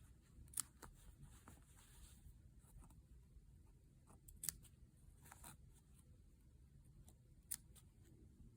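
Scissors snipping into a sewn fabric seam allowance across its curve: three sharp snips about three seconds apart, with a few softer cuts between them.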